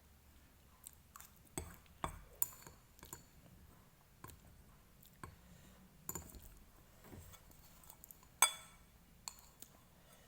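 Utensils clinking against a dish while eating noodles: a series of irregular sharp clinks, the loudest near the end.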